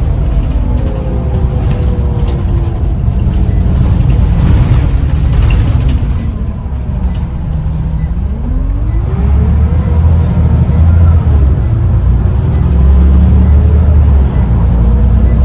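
Scania CN94UB bus under way, its diesel engine and drivetrain running with a heavy low rumble. The pitch sinks over the first few seconds, then rises again about eight seconds in as the bus picks up speed.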